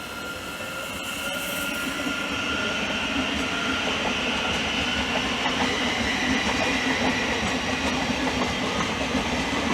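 Hull Trains Class 180 Adelante diesel multiple unit passing at low speed, its engine note and rail noise building over the first few seconds, then holding steady.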